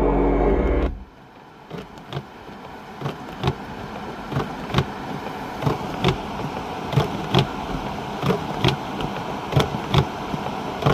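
Music cuts off about a second in. After that, footsteps crunch at about two a second over a steady noisy hiss, typical of walking through snow in wind.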